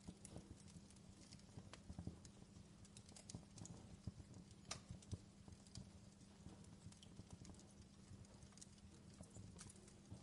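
Faint fireplace crackling: irregular small pops and snaps over a low rumble, with a steady low hum underneath.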